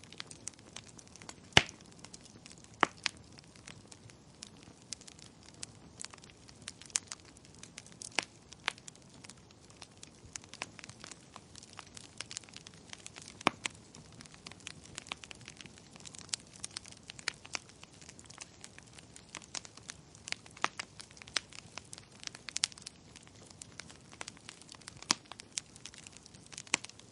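Wood fire crackling in a fireplace: irregular sharp pops and snaps over a soft steady hiss, with a few louder pops, the loudest about a second and a half in.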